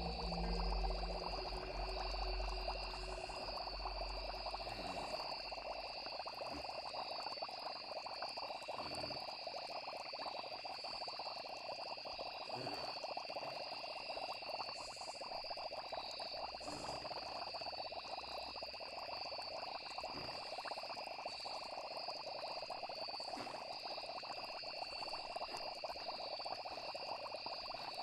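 Night chorus of frogs and insects trilling steadily in several overlapping pitches. Low music fades out in the first few seconds.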